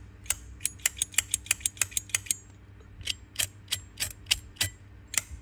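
A Zippo slim lighter being worked by hand: a quick run of sharp metallic clicks, about six a second, a short pause a little past two seconds in, then slower clicks.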